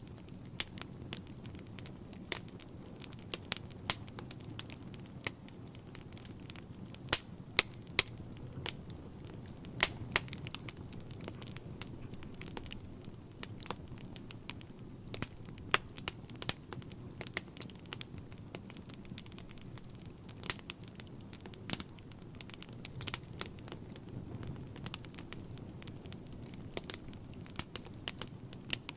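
Wood fire burning in a fireplace: irregular sharp crackles and pops, several a second at times, over a steady low rumble of the flames.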